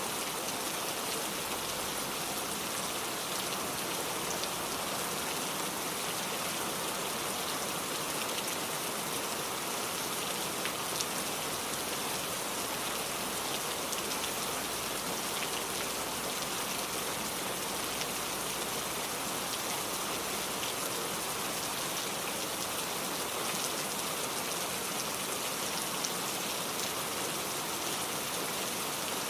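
Steady rain falling, an even hiss of many drops with faint patters on a surface and no change in strength.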